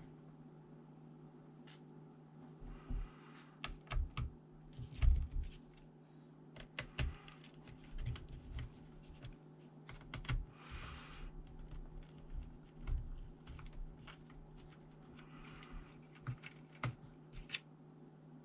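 Irregular clicks, taps and knocks, with a couple of short scrapes, from hands handling a ThinkPad T400 laptop's plastic and metal parts during disassembly.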